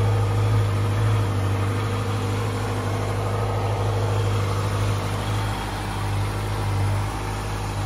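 Honda CB650F's inline-four engine idling steadily in neutral.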